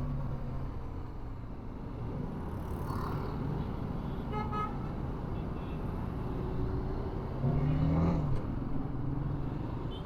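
BMW G 310 GS motorcycle running through city traffic, with steady engine and road noise. A horn toots briefly about four and a half seconds in, and an engine note rises and falls briefly near eight seconds.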